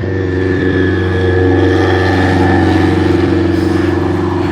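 A car engine running loud and steady at near-constant revs, its exhaust note holding one pitch throughout.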